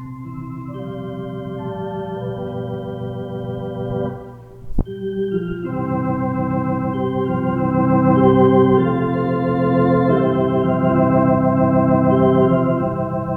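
Electric organ playing held chords in an instrumental passage, swelling louder from about six seconds in. A single sharp click sounds a little under five seconds in.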